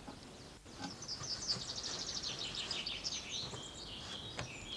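Small songbirds singing: a rapid run of high chirps and trills from about a second in, then a few held higher notes near the end, over a steady background hiss.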